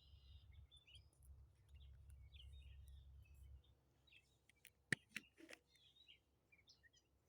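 Faint songbirds chirping and singing over a quiet outdoor background, with a low rumble in the first half that stops about halfway through. A few sharp cracks or clicks come close together about five seconds in.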